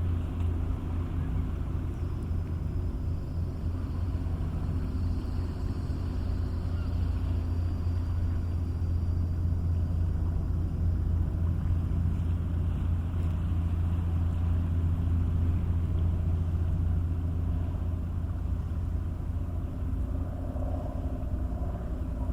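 A ferry's engine drones steadily, a deep low hum with a few steady tones above it that hold unchanged throughout.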